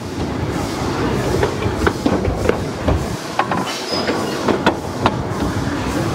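Narrow-gauge steam train running over old jointed track: a steady running rumble with sharp, uneven clacks and knocks from the wheels, about two or three a second.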